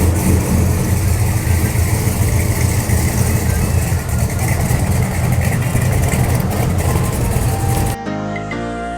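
1977 Chevy K30's big-block V8 engine running at a steady idle just after start-up. About eight seconds in it cuts off and music begins.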